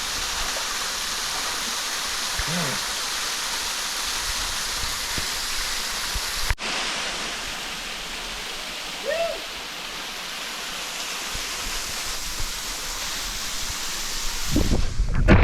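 Waterfall pouring into a pool: a steady rush of falling water, briefly cut off about six and a half seconds in, with louder low rumbling coming in near the end.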